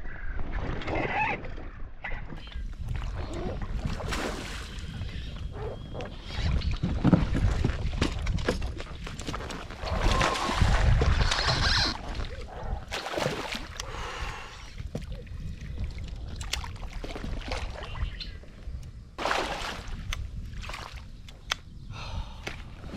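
Water sloshing and splashing around a float tube, with scattered knocks and rustling from handling gear, and two longer, louder stretches of low rushing noise.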